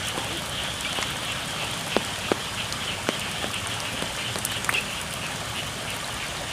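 Steady rain falling on the rice fields, an even hiss with a few sharper taps scattered through it.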